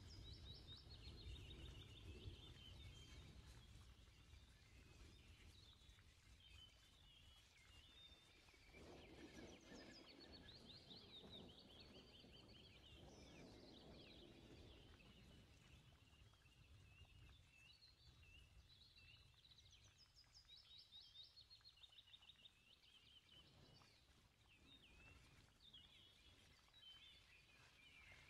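Near silence, with faint, repeated small bird chirps.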